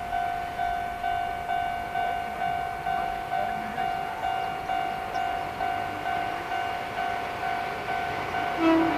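Electronic warning bell of a Japanese railway level crossing ringing in even, repeated strokes, a little over two a second. A brief lower tone sounds near the end.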